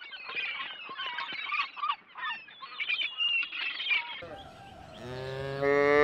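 A flock of gulls calling over one another, many overlapping high squeals. About five seconds in, a cow gives one long, loud moo that rises and then falls.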